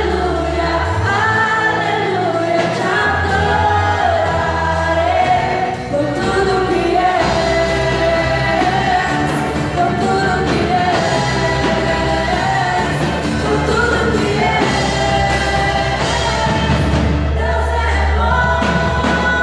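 Live gospel worship music: singers with a band and drums.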